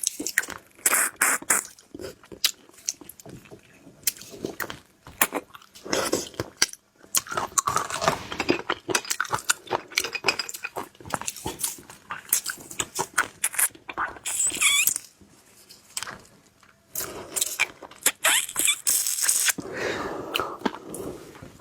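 Close-miked mouth sounds of eating seafood: wet chewing, lip smacks and sharp clicks, coming in irregular bursts with short pauses, and a brief squeaky slurp about two-thirds of the way through.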